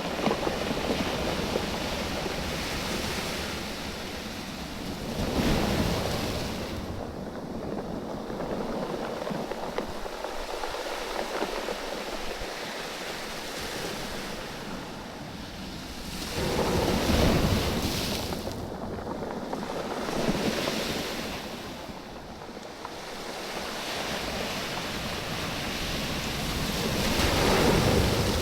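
Waves washing in and drawing back over a bed of rounded oval beach stones, the stones clattering and knocking together as the water moves them. The surf swells about four times, each surge rising and falling away.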